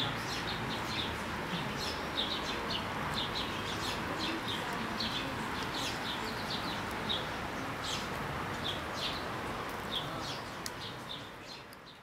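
Small birds chirping, many short separate chirps over a steady background noise of outdoor ambience. The sound fades out near the end.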